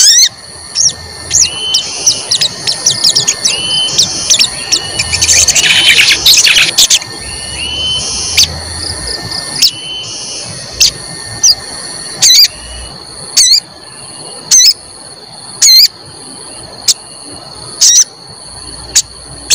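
Sogon bird calling a series of short, sharp 'cuit cuit' chirps, about one a second, with a denser run of chatter a third of the way through. A steady high-pitched whine runs underneath.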